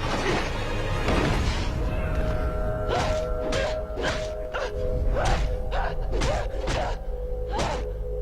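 Tense dramatic TV score with held tones, under a quick run of about ten fight-scene hits and whooshes about half a second apart, starting a few seconds in.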